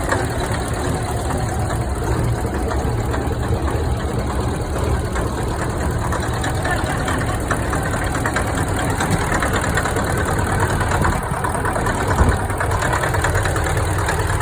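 Caterpillar 3408 turbocharged V8 diesel in a 1973 Kenworth truck idling steadily.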